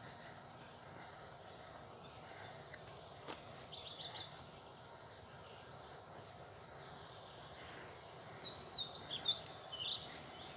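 Songbirds singing against a faint steady outdoor background: a short rapid trill of high notes about three to four seconds in, and a louder run of quick chirping notes near the end.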